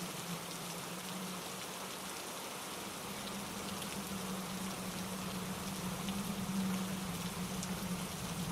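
Steady rain with scattered distinct drop taps, layered over a mountain stream cascading over granite rocks. A low rumble swells and eases beneath it.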